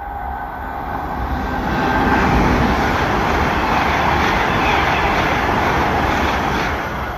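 Great Western Railway Intercity Express Train passing through at speed: a rush of wheel and air noise that builds over the first two seconds and then holds, with a faint high whine as it approaches.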